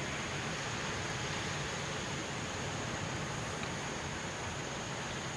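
Steady outdoor night ambience: an even hiss with a continuous high insect trill.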